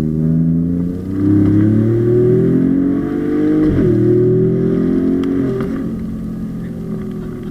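Ford Raptor's twin-turbo EcoBoost V6, fitted with a Corsa Extreme cat-back exhaust and downpipes, under hard acceleration. The engine note climbs and then drops sharply at each of several quick upshifts.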